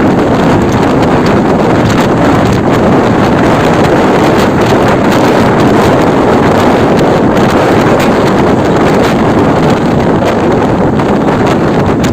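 Loud, steady roar of wind buffeting the microphone, mixed with road traffic noise.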